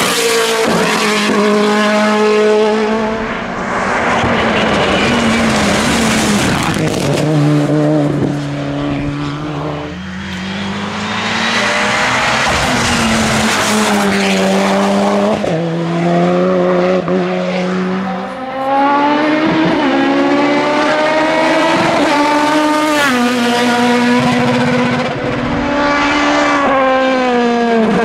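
Race car engines at full throttle on a hillclimb, revving up with rising pitch and dropping back at each gear change, again and again. The engine note eases off briefly a few times, as if lifting for corners.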